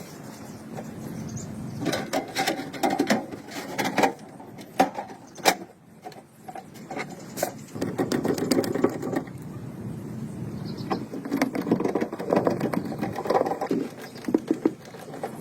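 Irregular clicks, knocks and rattling of workshop hand work on small parts, busiest about two to four seconds in and again from about eight seconds on, with a brief lull between.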